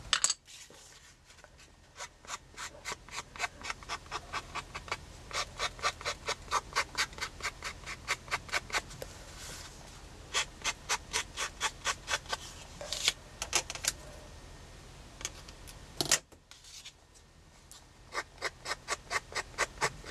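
Quick, scratchy rubbing strokes of a colouring tool along the edge of a paper craft tag, about three strokes a second in runs broken by short pauses. A single sharp knock about sixteen seconds in.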